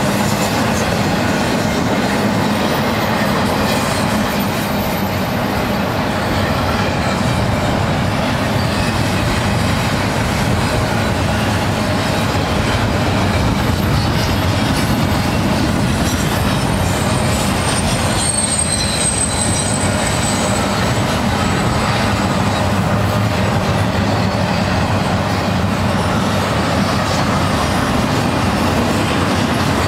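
Double-stack intermodal freight train's well cars rolling past: a steady rumble of steel wheels on rail, with faint high-pitched wheel squeals a couple of times.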